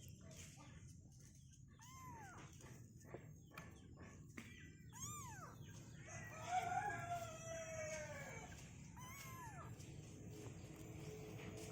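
A rooster crowing, one long crow of about two seconds past the middle, with a few short rising-and-falling calls before and after it.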